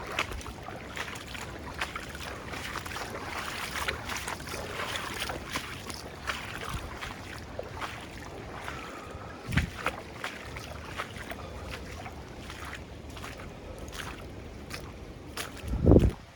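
Floodwater sloshing and splashing, with many small irregular splashes and trickles. A low thump about halfway through, and a louder one just before the end.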